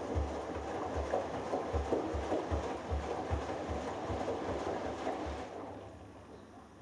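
Hoover Dynamic Next DXA610IW3 washing machine on its delicates wash: the drum turns, and wet laundry and water slosh in it with a rhythmic low thumping. About a second before the end the drum stops for its pause between turns.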